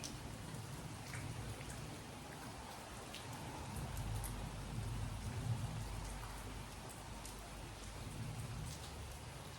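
Steady rainfall, with scattered individual drops ticking on nearby surfaces, over a low rumble that swells briefly around the middle.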